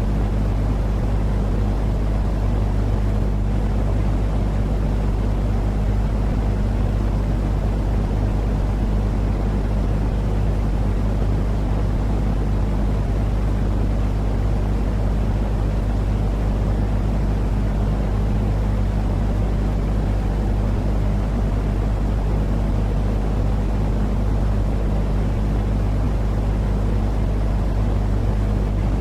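Continuous white-noise track for baby sleep: an unchanging low rumbling noise, heaviest in the bass, with a steady hum in it, like an engine or cabin drone.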